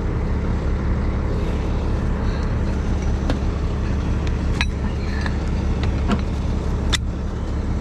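Heavy rotator wrecker's engine running steadily at idle, with about five sharp clicks and knocks from the rigging work in the second half.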